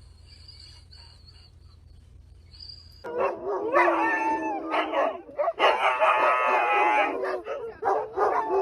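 A dog howling in long, wavering calls, starting suddenly about three seconds in after a quiet stretch.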